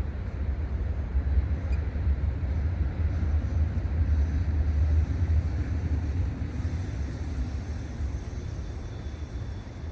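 Low, steady engine rumble that builds for the first half and then slowly fades.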